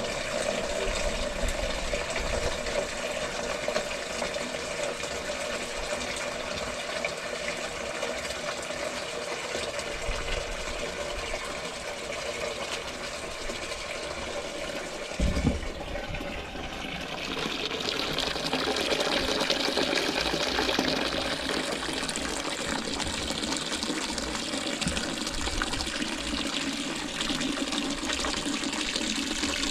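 Water running or gushing steadily, with a single knock about halfway through; after it the water sound grows brighter and a little louder.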